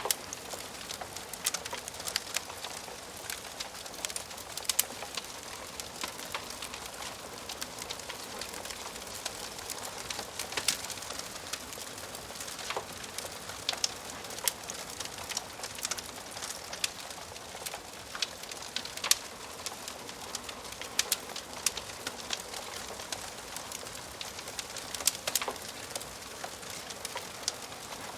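Wood fire crackling in a fireplace: a steady hiss with frequent sharp pops and snaps at irregular intervals.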